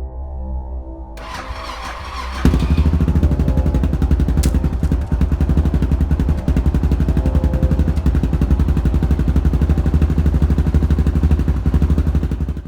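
A motorcycle engine is started, catching about two and a half seconds in, then runs steadily with a fast, even beat. Soft ambient music fades out in the first second.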